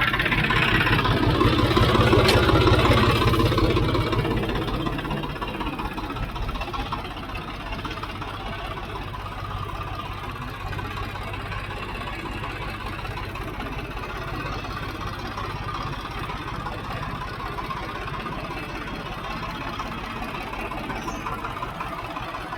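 Tractor engine running, louder for the first few seconds and then settling into a steady idle with an even firing beat.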